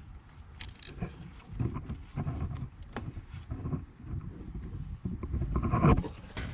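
Irregular clicks and knocks of hand tools and engine parts being handled, over low rumbling handling noise, loudest shortly before the end.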